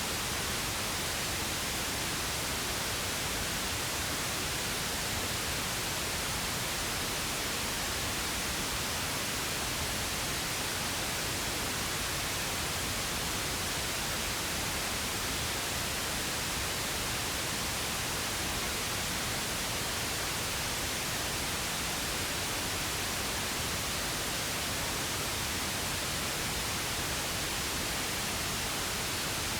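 Steady synthetic pink noise: an even, unchanging hiss spread across the whole range of pitch, with no events or changes.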